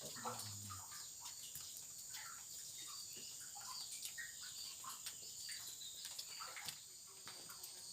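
Outdoor natural ambience: insects keep up a steady high-pitched drone while short chirps and calls, likely from birds, come and go. A brief low hum sounds in the first second.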